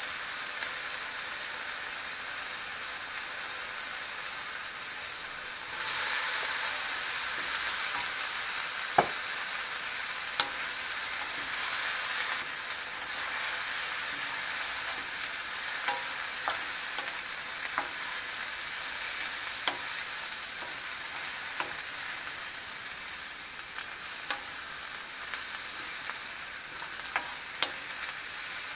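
Garlic, onion and carrot sizzling as they are stir-fried in a nonstick wok, the sizzle growing louder about six seconds in as baby king oyster mushrooms join the pan. A wooden spatula knocks against the pan now and then as it stirs.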